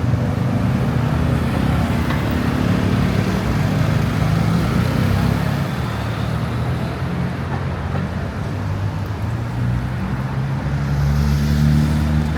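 Road traffic on a busy city street: vehicle engines running close by, with a low hum that swells as a vehicle draws near about eleven seconds in.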